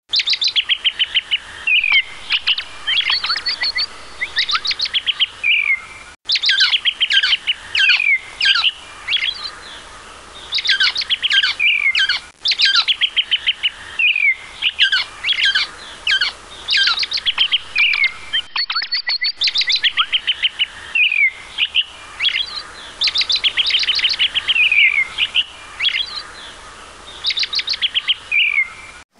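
Songbird singing: rapid trilled phrases mixed with short chirps, repeated every second or two.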